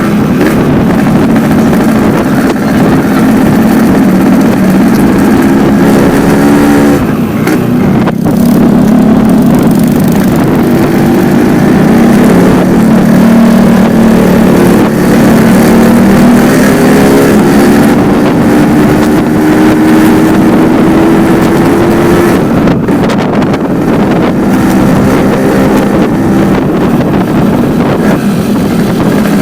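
Yamaha RX-King two-stroke single-cylinder motorcycle engine running through its stock muffler fitted with only the inner screen. The exhaust note climbs slowly in pitch and drops back several times, about seven seconds in and again past twenty seconds.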